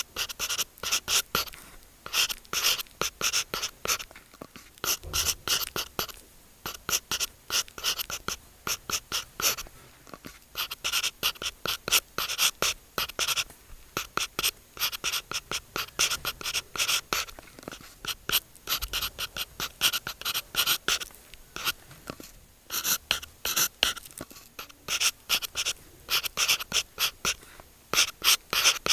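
Stylus writing on an iPad's glass screen: quick, irregular taps and short scratchy strokes as Chinese characters are written by hand, several a second with brief pauses between characters.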